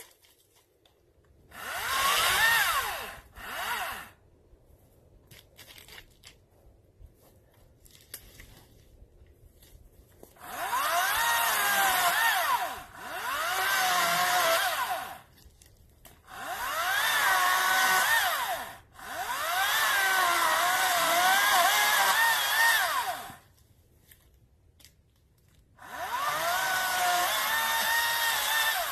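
Greenworks 40-volt cordless electric chainsaw cutting wood in about six bursts of a few seconds each. Its motor whine sags in pitch as the chain bites and climbs back up, and it stops completely between bursts with no idle.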